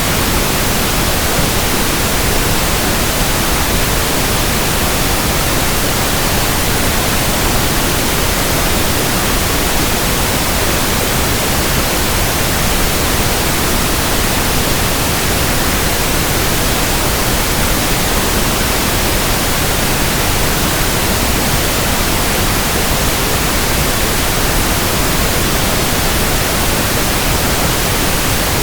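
Steady pink noise: an even, unchanging hiss spread across low and high pitches alike.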